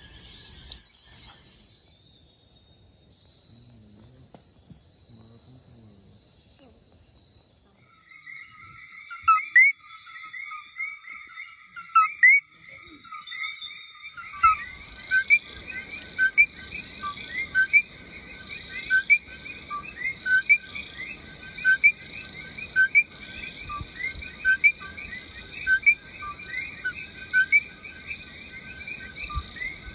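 Frogs calling at night: a thin steady high tone at first, then from about eight seconds in overlapping short upward chirps begin, thickening about halfway into a dense chorus of repeated chirping calls.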